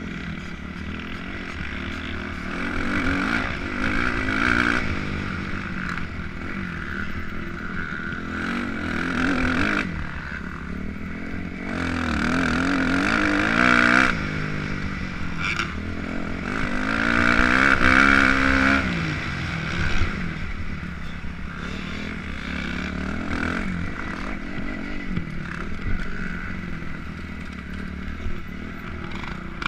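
Motocross dirt bike engine running hard, its revs repeatedly climbing and falling off through the gears, loudest in two rising sweeps about twelve and seventeen seconds in.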